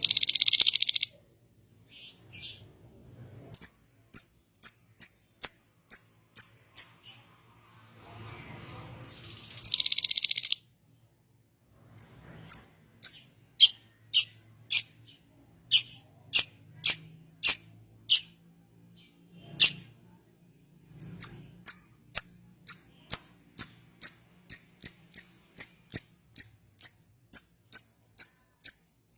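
A bird chirping: a long run of short, sharp, high chirps, about two a second, with pauses between runs. Two brief dense buzzing trills are mixed in, one at the start and one about ten seconds in.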